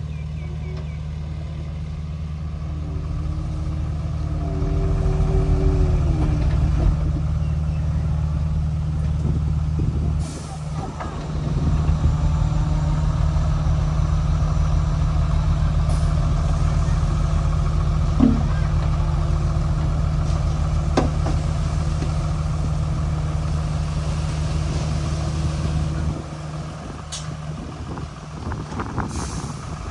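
Komatsu D31P bulldozer's diesel engine running steadily, working harder and louder from about four seconds in. It eases briefly about ten seconds in and drops back near the end, with a few sharp knocks along the way.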